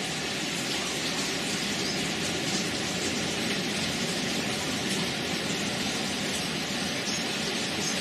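Steady rain falling, an even continuous hiss of raindrops with no break.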